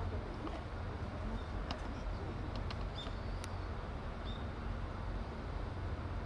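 Outdoor ambience: a steady low rumble, with a few faint short high chirps and light clicks over it.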